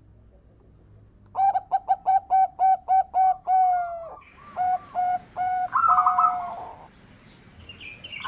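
Zebra dove (perkutut) singing: about a second in comes a fast run of short staccato coos, about four a second, then a few slower, spaced coos and a higher trill.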